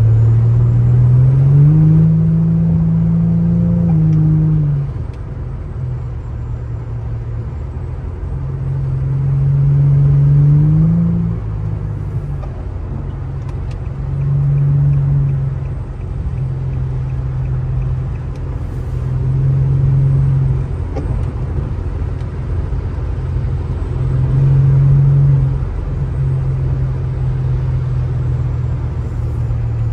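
Infiniti G35's VQ35HR 3.5-litre V6 engine under throttle while driving, rising in pitch twice in long pulls, then swelling in several shorter surges as the throttle is opened and eased.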